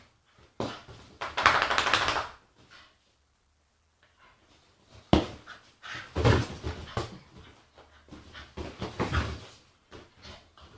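Staffordshire bull terrier making agitated vocal noises in several bursts, with a pause in the middle. A single sharp knock comes about five seconds in.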